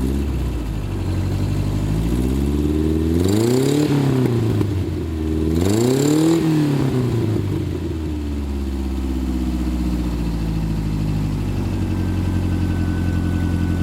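Water-cooled Subaru boxer engine in a 1972 VW Beetle idling, revved twice in quick succession about three and six seconds in, each rev rising and falling back to a steady idle.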